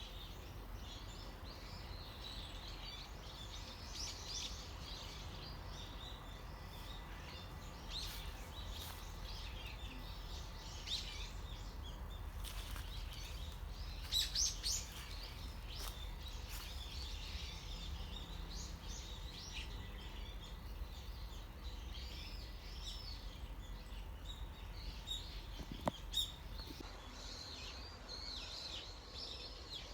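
Many birds chirping and calling continuously, with a few louder chirps about halfway through, over a steady low rumble.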